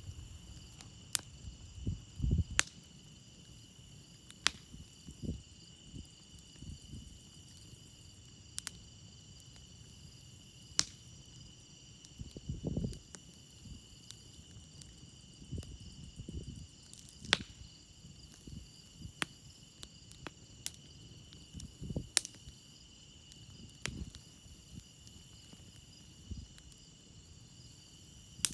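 Campfire crackling with sharp, irregular pops every few seconds and a soft low rumble between them, over crickets chirping steadily.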